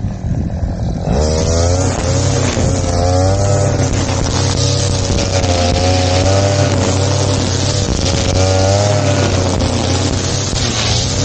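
Small petrol engine of a grass-cutting machine running at high speed, its pitch wavering up and down. It picks up from a lower speed about a second in.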